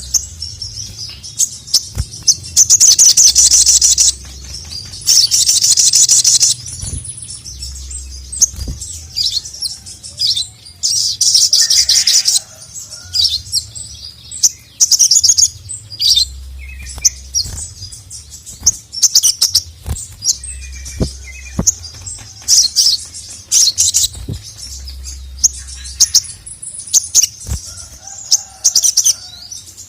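Sogon (little spiderhunter) singing hard: loud, fast, high-pitched rattling trills one to two seconds long, three of them in the first half, mixed with many short sharp chirps.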